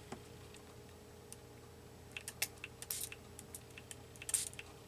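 A few light, irregular clicks and taps, bunched about two to three seconds in and again near the end, over a faint steady hum.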